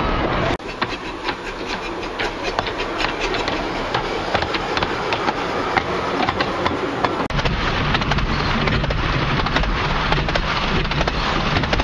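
15-inch gauge miniature railway train running, its wheels clicking and rattling over the rails. A heavier low rumble of the moving carriage sets in about seven seconds in.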